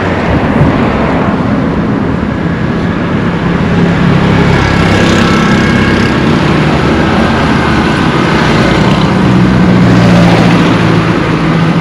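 Road traffic: a motor vehicle's engine running close by over general traffic noise, growing louder toward about ten seconds in.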